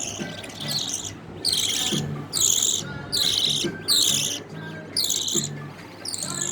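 Budgerigar chicks giving high, raspy begging calls, about one call a second, calling to be fed.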